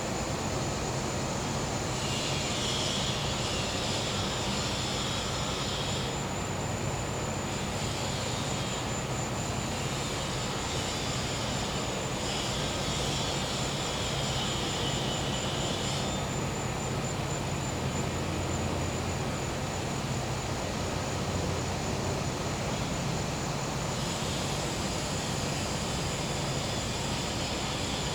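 Gas-powered generator humming steadily under a continuous high cricket trill. A higher buzzing rises and falls away in spells of a few seconds.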